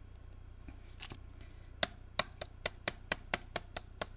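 A quick, even run of about ten light taps, four or five a second, as a glittered paper card is tapped to knock off the loose glitter, with a few softer ticks before it.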